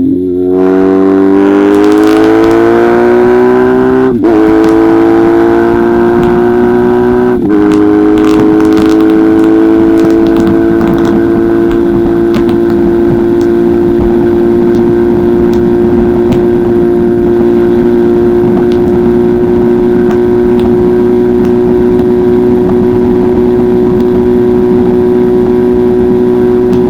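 1994 BMW R1100GS air/oil-cooled boxer twin through an Akrapovic titanium exhaust, accelerating with its pitch rising. Two short breaks about four and seven seconds in mark upshifts, after which the engine holds a steady pitch at a constant cruising speed.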